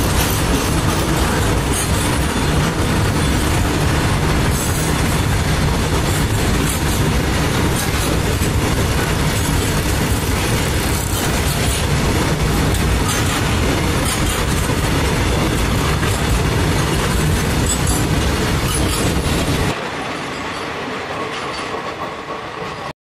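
Covered box wagons of a freight train rolling past close by, a steady loud rumble and clatter of wheels on the rails. Near the end the noise drops sharply, then cuts off.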